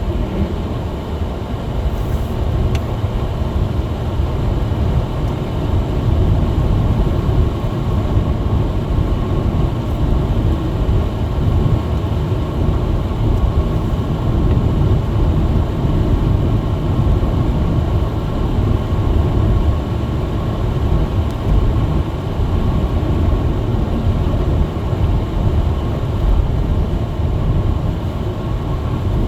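Steady low rumble of a small front-wheel-drive car driving, engine and tyre noise heard from inside the cabin.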